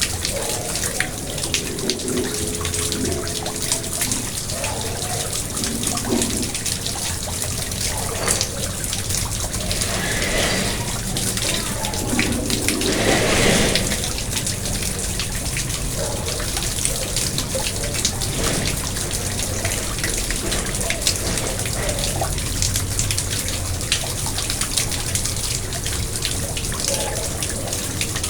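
Water splashing and trickling steadily in a garden pond, full of small drips and splashes, swelling briefly about halfway through.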